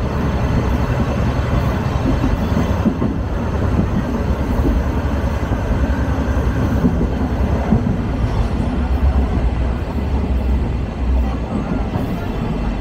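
Sagano Romantic Train in motion: a steady, unbroken rumble of the train running along the line.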